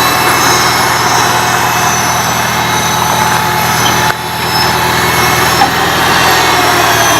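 1975 International Harvester Farmall Cub's four-cylinder engine running steadily, with a brief dip in level about four seconds in.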